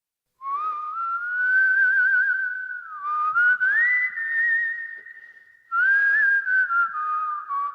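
A person whistling a slow tune of long held, wavering notes with audible breath, starting after a moment of silence; the pitch slides up about a third of the way in, and the whistling fades briefly past the middle before picking up again.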